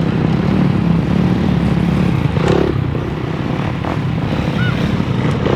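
Several motocross bikes' engines running together in a steady, loud drone of overlapping engine notes.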